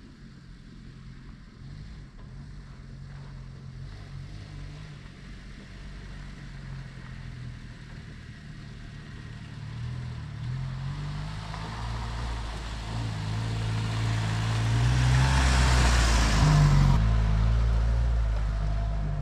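Car engine running as the vehicle drives, growing steadily louder. A loud rushing noise builds over the last several seconds and cuts off sharply near the end.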